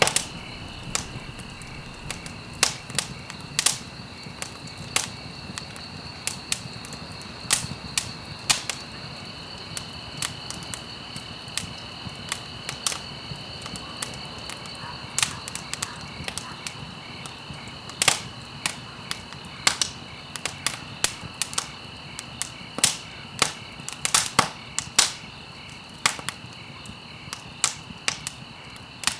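Wood fire burning in a fireplace: irregular sharp crackles and pops, some single and some in quick clusters, over a low steady hiss.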